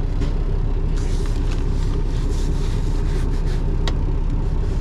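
Semi truck's diesel engine idling with a steady low rumble, and a single sharp click about four seconds in.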